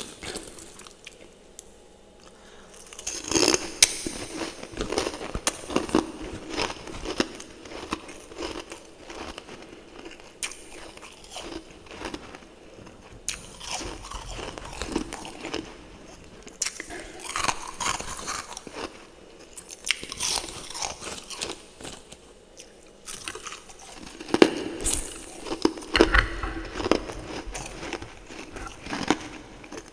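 Close-up chewing and crunching of refrozen freezer frost chunks and powdery fresh frost, bite after bite in crackly bursts, starting about three seconds in.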